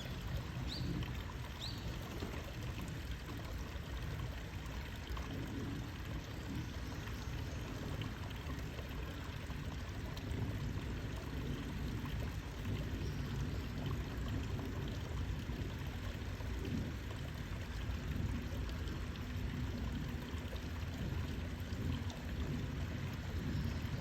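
Steady rushing noise, like flowing water, with two brief high bird chirps about a second and two seconds in.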